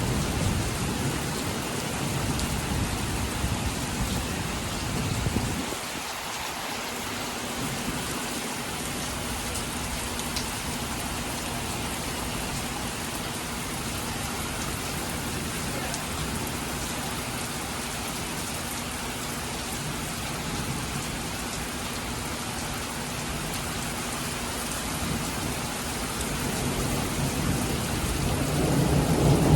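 Heavy rain pouring down steadily in a thunderstorm. A low thunder rumble at the start dies away about five seconds in, and a new rumble builds near the end.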